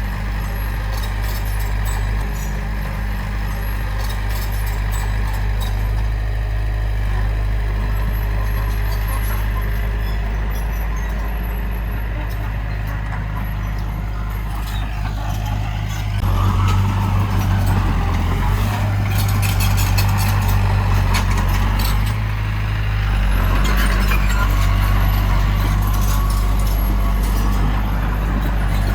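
Heavy diesel engine of earthmoving machinery running steadily, working harder and louder about halfway through and again near the end.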